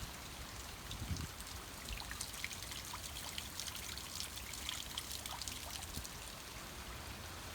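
Rain dripping and trickling as a thunderstorm winds down, with many scattered drops ticking over a steady hiss of water.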